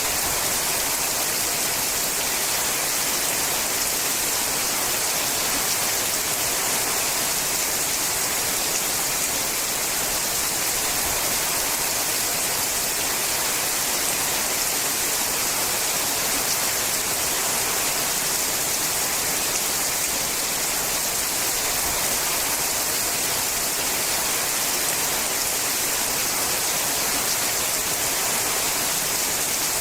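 Rain falling steadily on a sheet-metal roof, an even, unbroken hiss of many drops with no single drop standing out.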